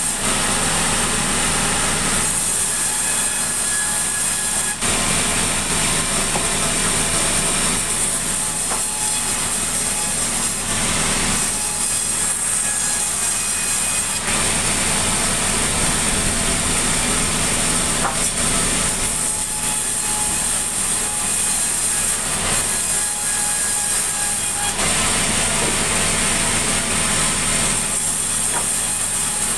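Sawmill saw cutting sengon timber: a loud, continuous sawing noise with a steady high whine that changes character every few seconds.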